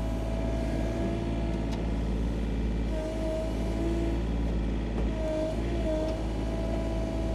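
Mini excavator's diesel engine running steadily under load, with a hydraulic whine that wavers a few times as the controls are worked.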